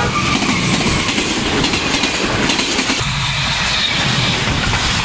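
Diesel-hauled passenger train passing close by at speed: a steady loud rush of wheel and air noise over a low rumble, with the wheels rattling rapidly over the rail joints.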